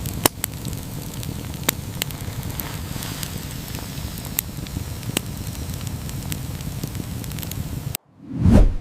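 Wood fire crackling: a steady low rumble with scattered sharp pops. It cuts off suddenly near the end, and a brief, loud, low whoosh swells and fades.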